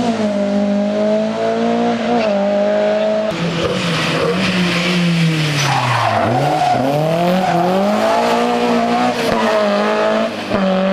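Rally car engine held at high revs, then an abrupt change to a car that lifts off, its engine pitch dropping steeply as it slows for a bend before climbing again as it accelerates away, with tyre squeal through the slow part.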